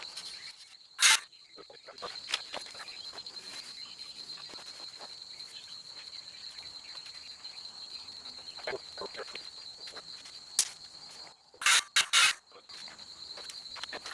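Crickets trilling steadily in the background. A sharp, noisy knock or rasp about a second in and a quick run of three more near the end stand out as the loudest sounds.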